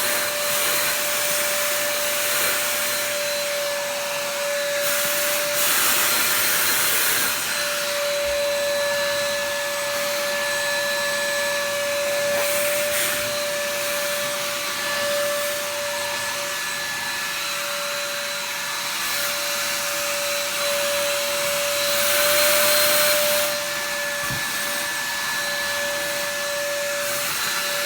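Vacuum cleaner running with a steady motor whine over its suction hiss, used to vacuum a cat's fur. The hiss swells twice: about six seconds in, and again near the end.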